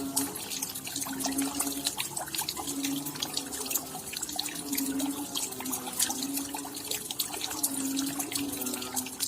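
Rain falling, with dense, close individual drops hitting and dripping, and a low tone that comes and goes about every second.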